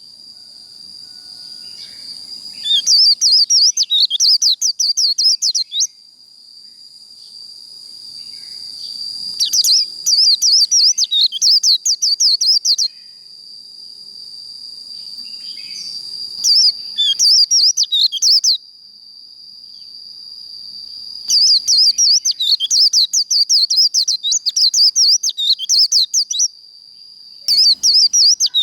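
White-eye (vành khuyên) singing its rapid warbling 'líu' song in five bursts of a few seconds each, over a steady high-pitched tone that runs underneath.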